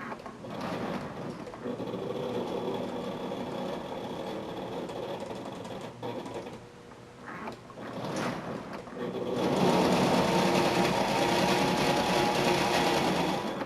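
Lionel 682 steam turbine model locomotive's electric motor whirring, with its wheels running on the three-rail track. It is straining to haul 15 cars up an incline, more than it can manage. The sound dips briefly about halfway through, then runs louder for the last few seconds.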